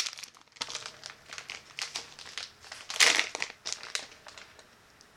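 Plastic packaging of wax melts crinkling and crackling as it is handled and opened, in irregular bursts with the loudest rustle about three seconds in, dying away near the end.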